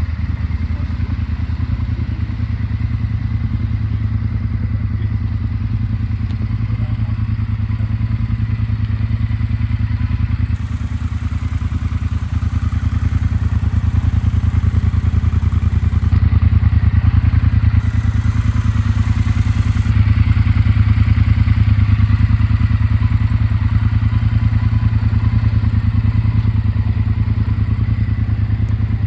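Triumph Bonneville Bobber's 1200cc water-cooled parallel-twin engine idling steadily.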